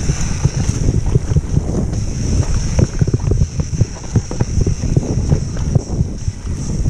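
Downhill mountain bike riding over rough trail: wind buffeting the microphone over a steady low rumble, with frequent sharp knocks and rattles from the bike and tyres hitting bumps.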